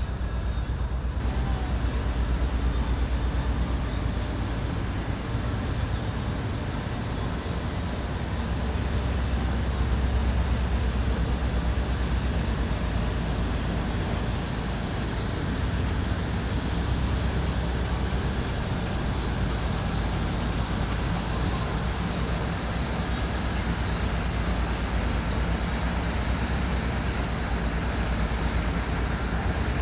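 Steady low rumble of passing boat engines, swelling around ten seconds in, over a constant background of city noise.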